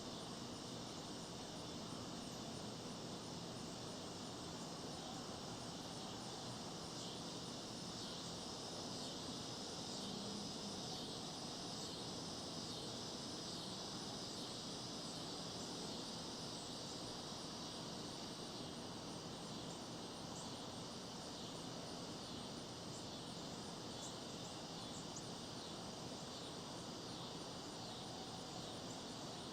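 Faint, steady insect chorus, a continuous high chirring with faint ticks in it and no change throughout.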